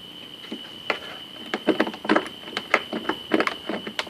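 Irregular sharp clicks and knocks, several a second, as the Craftsman T2200 riding mower's ignition key and controls are worked, with no engine cranking: the mower is dead and will not start. A steady high-pitched tone runs beneath.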